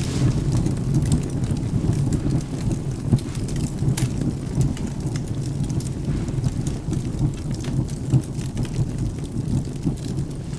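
Wood fire crackling with scattered sharp pops over steady rain and a low, continuous thunder rumble.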